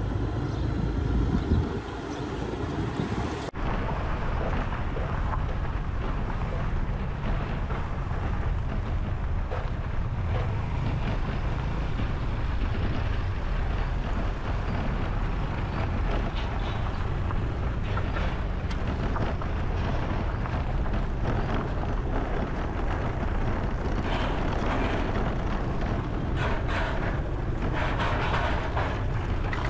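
Steady outdoor rumble of vehicles with wind noise on the microphone, cut abruptly to a new shot about three and a half seconds in; a few light knocks and rattles near the end.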